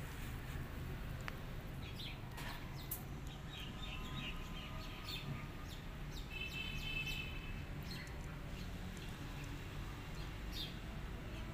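Small birds chirping in short calls, with one longer, ringing call about six to seven seconds in, over a steady low rumble.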